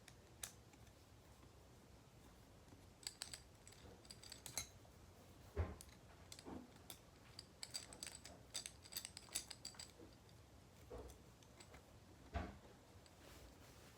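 Butterfly knife trainer being handled and worked after a screw change: faint, scattered light clicks and ticks, with two louder knocks, one about five and a half seconds in and one near the end.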